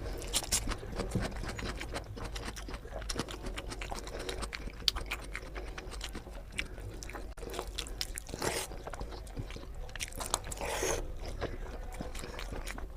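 Close-up chewing and wet mouth sounds of someone eating spicy egg curry with rice: a steady run of small clicks and smacks, with a couple of longer wet slurps in the second half.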